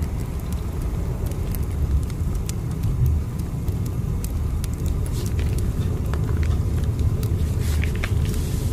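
Steady low rumble of a train running, as from inside a carriage, swelling and easing unevenly, with scattered faint clicks and crackles over it.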